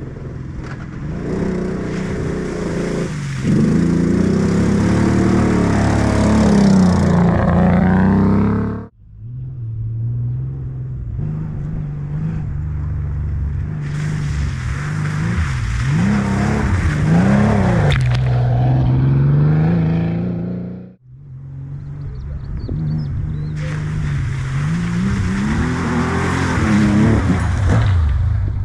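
Classic rally cars driving hard, engines revving up and dropping back through gear changes, in three separate passes that each cut off abruptly.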